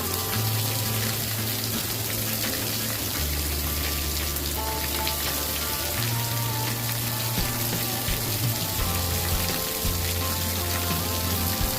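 Steady hiss of rain with small crackling clicks of a campfire, over soft ambient music: low held bass notes that change every few seconds, with faint higher tones drifting above them.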